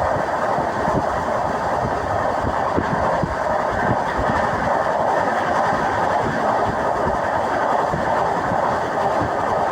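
Passenger train in motion, heard from inside the carriage: a steady rumble and rattle of wheels on the track, with many small knocks underneath.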